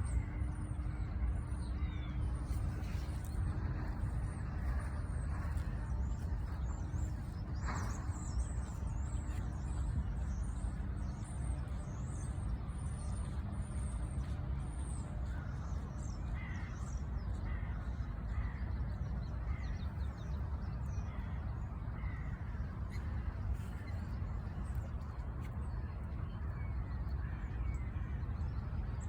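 Wild birds calling: many short, high chirps repeat over a steady low rumble.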